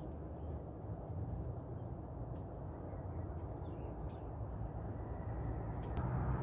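Songbirds at backyard seed feeders giving a few short, sparse chirps over a steady low rumble.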